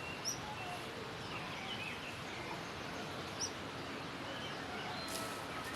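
Quiet outdoor background noise with a few faint bird chirps, including two short high chirps, one just after the start and one about three and a half seconds in.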